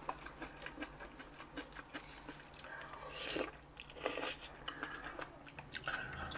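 Faint, soft chewing of tender napa cabbage from a gopchang (beef intestine) hotpot, with a few small scattered clicks.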